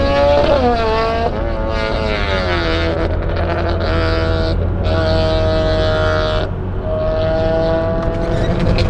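A car engine heard from inside the cabin under hard acceleration, its pitch dropping at each gear change, with short breaks about halfway through and again a couple of seconds later, over a steady low road rumble.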